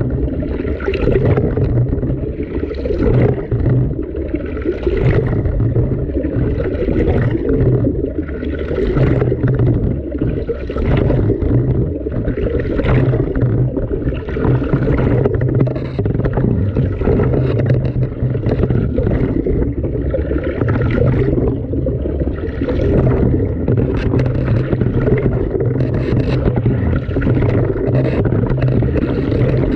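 Washing machine wash cycle heard from inside the drum: water sloshing and swishing in repeated surges about once or twice a second, over a low motor hum that cuts in and out every few seconds as the drum turns.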